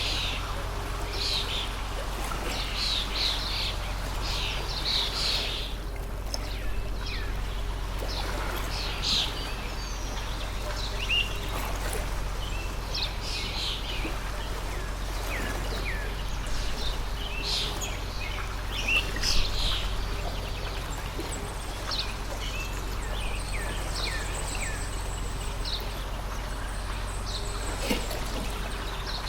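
A water stream running with a steady rushing hiss, while small birds chirp and call in quick short notes throughout, over a steady low hum.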